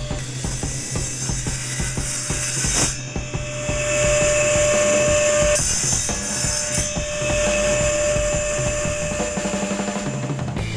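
Table saw cutting PVC pipe pieces, with two louder stretches where the blade runs through the pipe, over background music with a steady beat.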